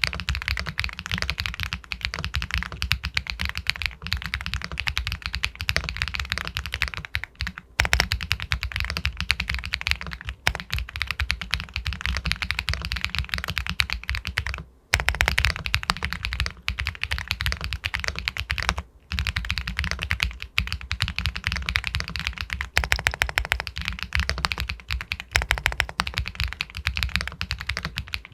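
Continuous fast typing on an Epomaker Galaxy 80 Pro aluminum mechanical keyboard with White Jade linear switches, a dense run of sharp key clacks broken by a few short pauses.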